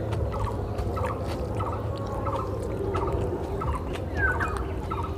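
Repeated short bird calls, about two a second, over a low steady hum, with a higher falling chirp about four seconds in.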